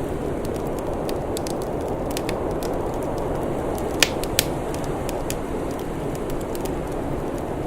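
Wood fire crackling, scattered sharp snaps over a steady low rushing noise, with two louder pops close together about four seconds in.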